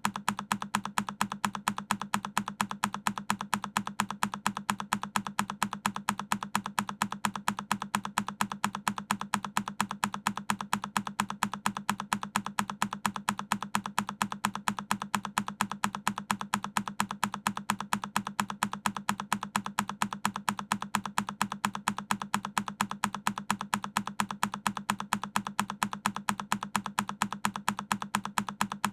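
A single key on a Keychron K10 mechanical keyboard pressed over and over as an evenly spaced loop, several key clicks a second at a steady level.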